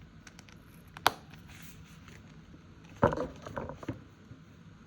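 Paper envelopes and a budget binder being handled: a sharp click about a second in, then a short run of taps and rustles around three seconds in.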